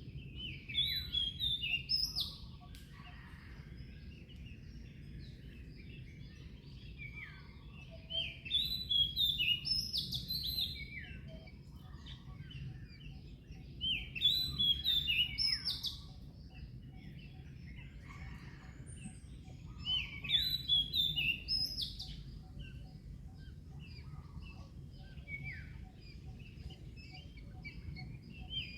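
A songbird repeating a short, quick chirping song phrase about every six seconds, over a steady low background rumble.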